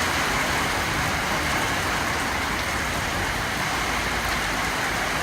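Heavy tropical downpour, rain pouring down in a steady, dense hiss.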